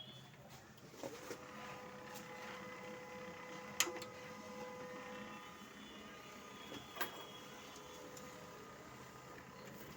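HP LaserJet M1005 printer-scanner running its scanner mechanism, now working again after a scanner error 12/20 repair. It makes a steady motor whine that starts about a second in, with a few sharp clicks.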